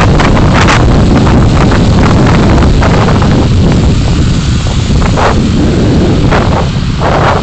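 Car driving, recorded by a dashcam: a loud, steady rumble of road and engine noise with wind buffeting the microphone, and short hissy swells in the second half.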